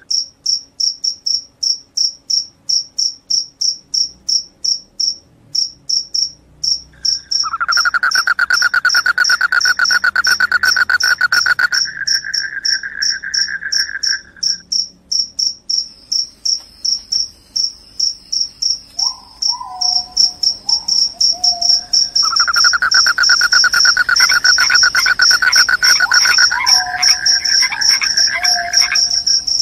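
Crickets chirping: a high-pitched, even train of chirps, about four a second, runs throughout. A second, lower continuous trill joins twice for several seconds, and a few short falling calls come around the middle and near the end.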